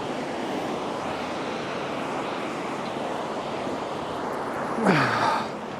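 A steady rushing outdoor noise with no clear pattern. About five seconds in, a person's voice makes a short sound that falls in pitch.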